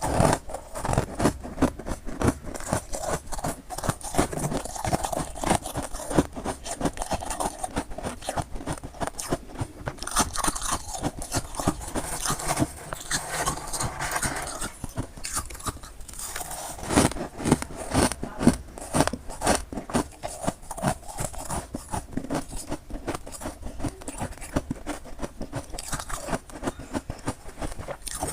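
A person biting and chewing crunchy freezer frost: dense, uneven crunching and crackling throughout.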